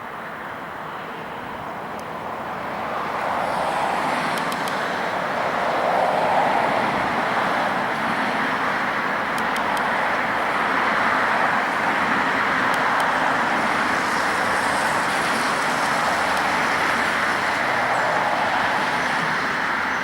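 Passenger train hauled by an EP20 dual-current electric locomotive running past, a steady rushing rumble of wheels and train that grows louder about three seconds in.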